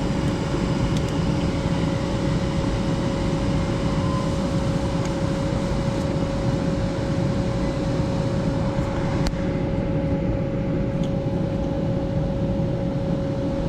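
Furnace ECM blower motor running steadily: an even rush of moving air with a constant hum-whine, and a couple of faint clicks near the end.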